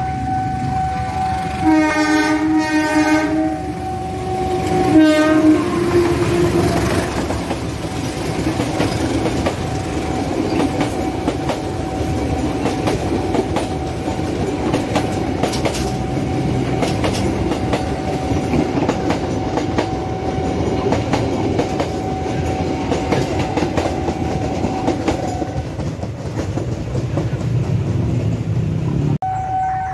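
Diesel locomotive horn sounding twice, a blast of over a second and then a short one about three seconds later, as a passenger train hauled by two locomotives approaches. The rumble and rapid wheel clatter of its carriages passing close by follow for about twenty seconds. A steady electronic warning tone runs underneath and stops near the end.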